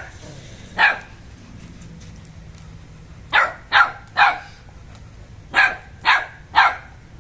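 American Bully dog barking: one bark about a second in, then two quick runs of three barks each.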